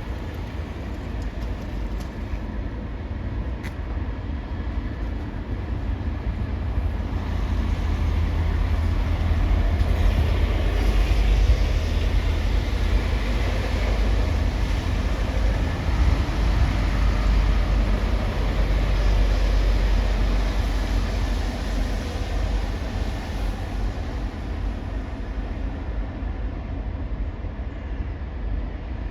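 Low engine rumble of a passing heavy vehicle, swelling to its loudest about ten seconds in and fading over the last few seconds.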